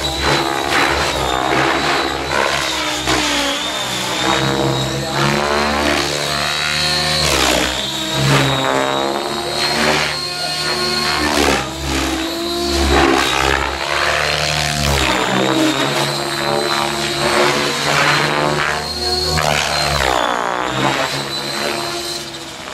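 Electric RC helicopter with an Align 750MX brushless motor in flight: a steady high motor whine over the rotor sound, with pitch and loudness shifting as it moves about, a little quieter near the end.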